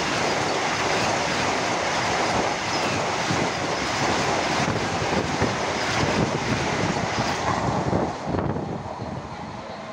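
Passenger train passing at high speed: a loud, steady rush of wheel and air noise that drops away suddenly about eight seconds in as the train goes by.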